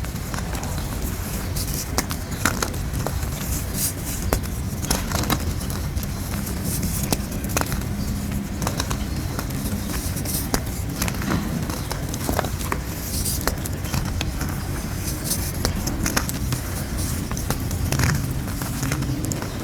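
Moulded grey gym chalk shapes being crushed, crunching and crackling in many quick sharp snaps over a steady low rumble.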